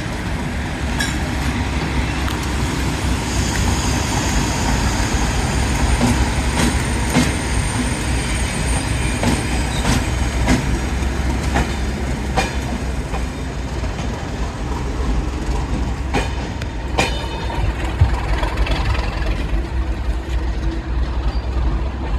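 Class 37 diesel locomotive, with its English Electric V12 engine, running with a steady low rumble as it moves slowly into sidings. Irregular knocks come from the wheels over rail joints, and a thin, high squeal from the wheels sounds from about three seconds in until about thirteen seconds.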